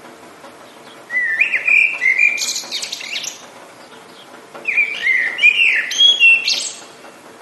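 A songbird singing two similar phrases, each a run of whistled, gliding notes ending in higher buzzy notes, the second starting about halfway through, over a faint steady background hiss.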